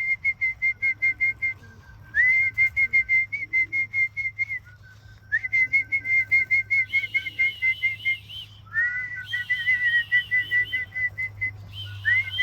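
Repeated whistled calls used to call young racing pigeons back into their loft. Each phrase opens with a short upward slide, then runs into a quick string of pulsed notes, about seven a second, over two alternating pitches. From about seven seconds in, a second, higher wavering whistle sounds alongside.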